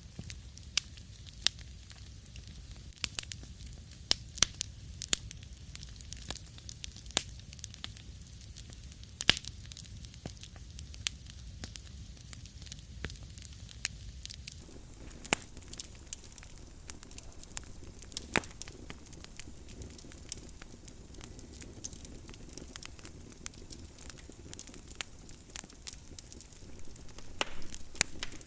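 Fire crackling in a fireplace: irregular sharp pops and snaps over a steady low rumble. A soft hiss comes up about halfway through.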